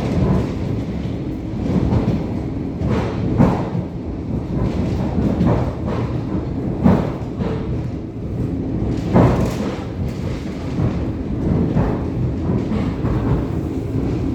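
ET2M electric multiple unit under way: a steady rumble of wheels on the rails, broken every second or two by sharp knocks and thumps.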